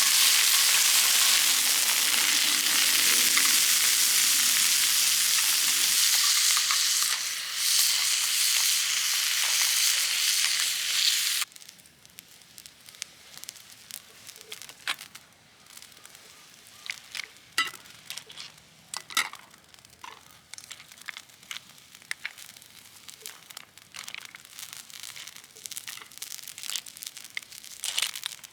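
Food frying in a pan over a campfire, a loud steady sizzle. About eleven seconds in it cuts off suddenly, leaving faint scattered crackles and clicks.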